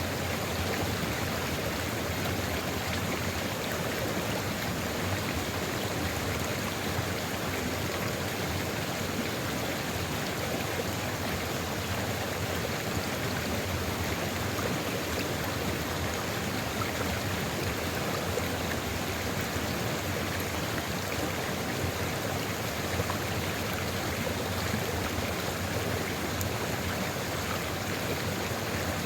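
Sulfur river flowing steadily, an even rush of running water.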